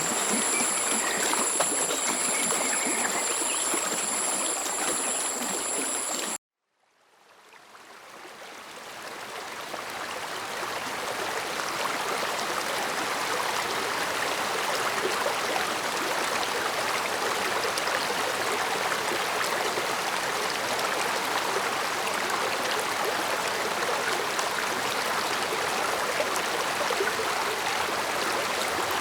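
Stream water running in a steady rushing murmur, with two thin steady high-pitched tones over it at first. About six seconds in, the sound cuts out suddenly. The running water fades back in over the next few seconds, now without the high tones.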